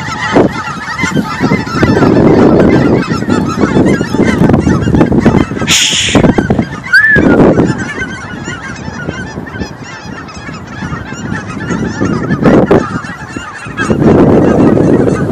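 A flock of geese honking, many calls overlapping, thinning for a few seconds in the middle and swelling again near the end, with a brief hiss about six seconds in.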